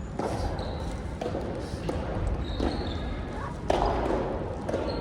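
A doubles rally on an indoor court: sharp hits of ball on racket and floor about once a second, with short high shoe squeaks and a loud hit near the end.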